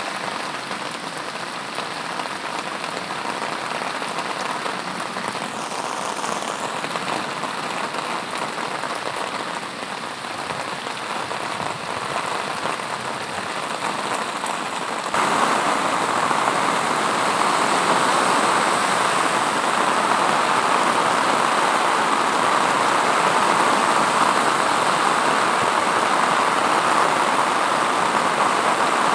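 Heavy rain pouring down in a steady, dense hiss. About halfway through it suddenly becomes louder and fuller.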